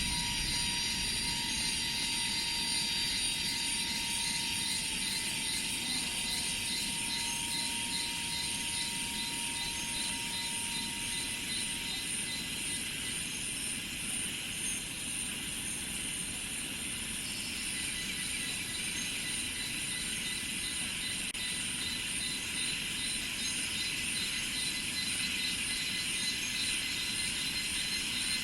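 Steady insect chorus with fast-pulsing high trills, and a lower steady whine that fades out about twelve seconds in.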